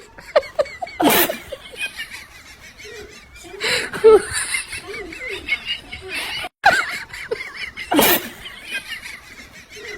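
People laughing and talking, with louder outbursts about a second in, around four seconds and near eight seconds.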